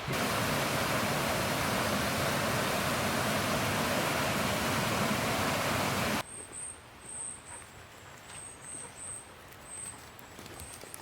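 A loud, steady rushing noise stops abruptly about six seconds in. After that comes a quieter woodland background with a small bird giving short, very high chirps in quick groups, and a few faint clicks.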